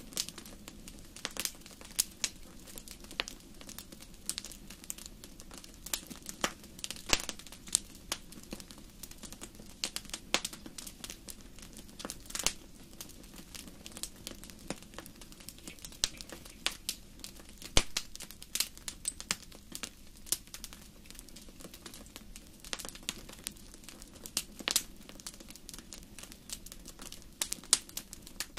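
Wood fire burning in a large fireplace, crackling and popping irregularly over a low steady rush of flame, with one sharp louder pop partway through.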